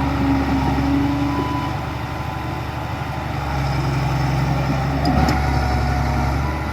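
Heavy diesel engine of earthmoving machinery running steadily, its pitch stepping up slightly about three and a half seconds in, with a brief clank about five seconds in.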